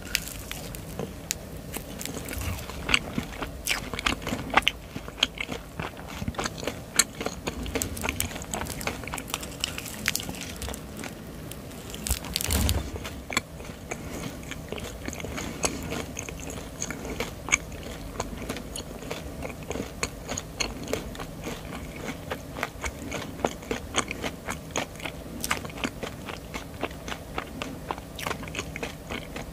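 Close-miked mouth sounds of biting and chewing a marshmallow: many small sharp clicks and smacks, with a louder burst about twelve and a half seconds in.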